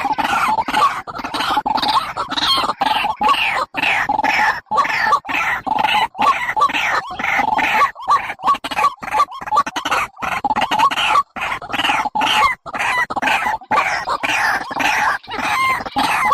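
Barred rail (tikling) calls repeated about three times a second, each note sliding downward, in a recording played as a lure for trapping birds.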